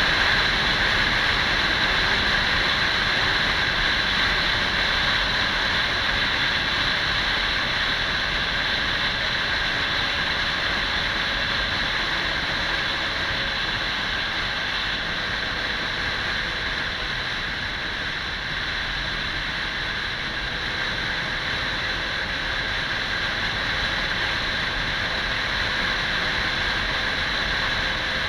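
Steady wind rush over the microphone with a Kawasaki 400 cc motorcycle engine running underneath at a steady cruising pace.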